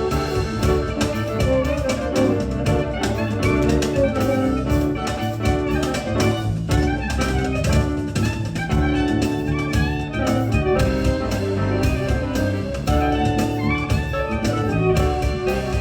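Live band music with drums and pitched instruments playing together.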